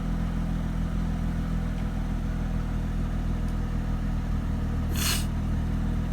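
Mercedes SLK 320's 3.2-litre V6 idling steadily, with a short burst of noise about five seconds in.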